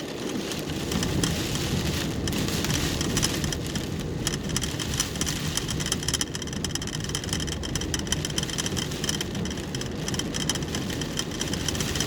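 Rain falling on a car, heard inside the cabin, over the steady noise of the car running.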